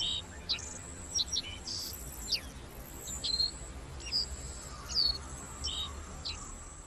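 Forest bird chirps, short quick notes sweeping down in pitch several times a second, over a steady high-pitched insect drone.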